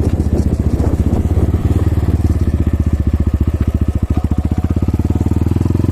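Kovi Advance 300 enduro motorcycle engine idling steadily, in an even, rapid pulse.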